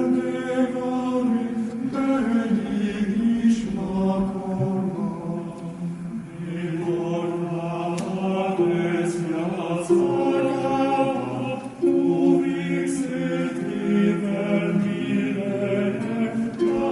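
Psalm chanting recreated from the Masoretic cantillation accents of the Hebrew Bible: singing in long held notes that step from pitch to pitch, with a few light triangle strikes.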